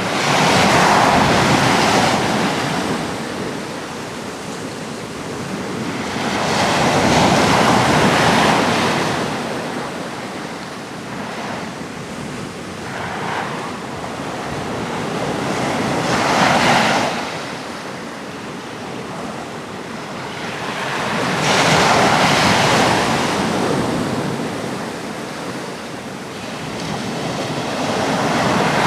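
Sea waves breaking on a rocky shore, the surf swelling and falling back about every six seconds, five surges in all, with some wind on the microphone.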